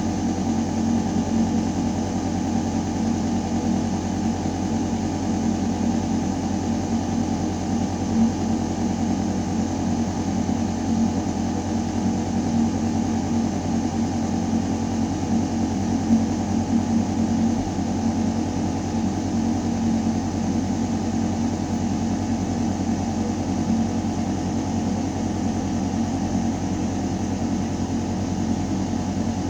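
Building ventilation system running: a steady, deep mechanical hum of air moving through metal ductwork, with several steady tones over an even rush of air.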